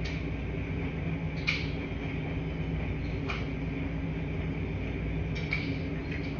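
Washing machine running with a steady low hum, with a light clink about every two seconds.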